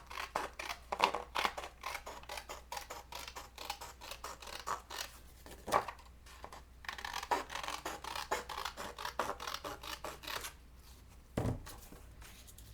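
Scissors cutting through a sheet of scrapbook paper in many quick, crisp snips. The snipping stops about ten seconds in and is followed by a soft low thump.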